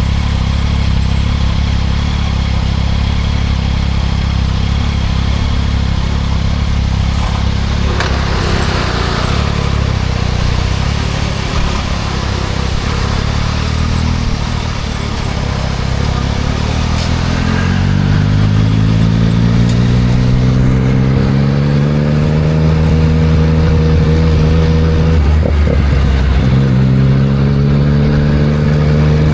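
2024 Yamaha MT-09 SP's 890 cc inline-three engine through a Spark triple-exit full exhaust, running at steady low revs, then revving up as the bike accelerates from about halfway through. Near the end the engine note breaks off briefly and then climbs again.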